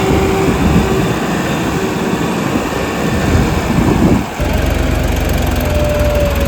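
Diesel engine running loudly under load. About four seconds in the sound changes abruptly to a different, steadier engine note with a strong low hum.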